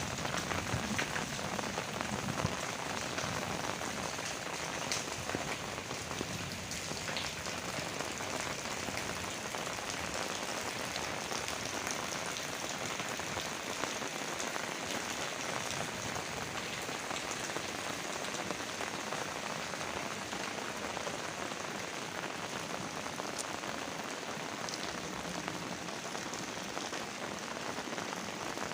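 Heavy rain falling steadily, a dense even hiss with scattered sharper drop taps.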